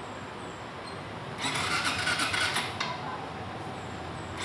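Yamaha fuel-injected motorcycle being cranked on its electric starter: a burst of just over a second starting about a second and a half in, and another beginning at the very end. It is the first start attempt after the fuel injector was replaced.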